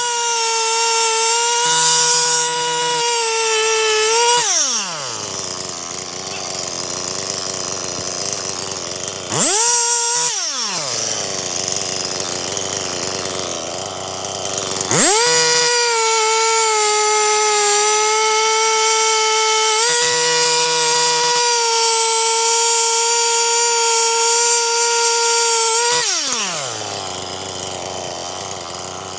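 Stihl MS 261 C-M two-stroke chainsaw bucking firewood. It is held at full throttle through three cuts, a long one at the start, a short one about ten seconds in and a long one from about fifteen seconds. Between cuts the revs fall steeply and the saw idles.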